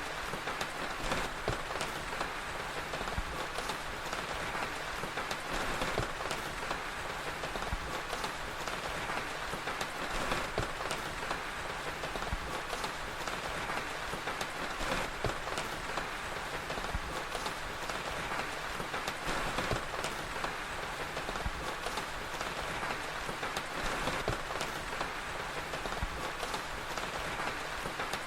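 Steady rain with the scattered crackle of a wood fire, a continuous hiss dotted with small sharp pops.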